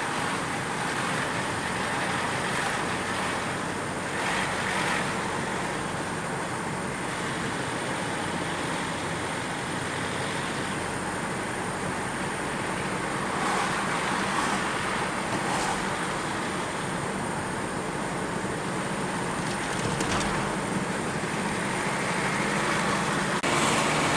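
Steady road traffic noise: an even rushing of tyres and engines with no distinct events.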